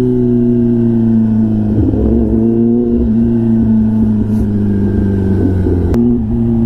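Kawasaki ZX-10R's inline-four engine with an SC-Project exhaust, running at steady throttle on the move, its pitch easing slowly down. A sharp crack and brief dip in the note come about six seconds in.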